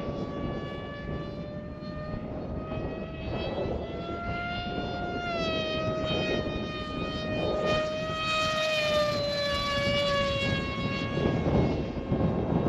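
Electric motor and propeller of a ZOHD Alpha RC plane whining steadily in flight, the pitch rising slightly about five seconds in and easing back down. Wind rumbles on the microphone throughout.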